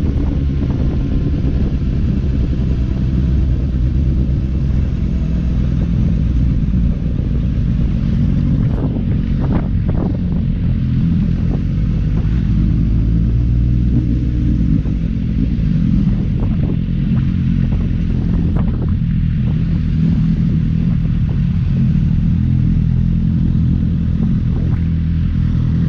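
Motorcycle engine running steadily at cruising speed while riding, heard from on the bike with road and wind noise.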